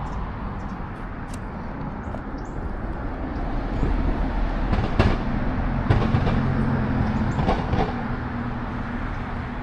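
Motor vehicle running, a steady low rumble of engine and road noise. A low engine hum swells about halfway through, with a few light knocks.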